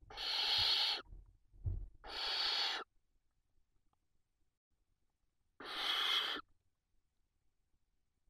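Barn owl giving three harsh, hissing calls of about a second each: one at the start, one about two seconds in and one about five and a half seconds in.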